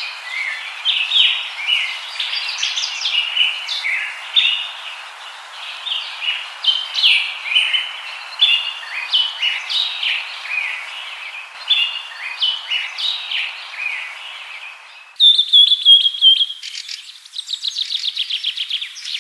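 Birdsong: a continuous stream of short, varied chirps over a faint hiss, then, about fifteen seconds in, an abrupt switch to louder whistled notes and a fast trill.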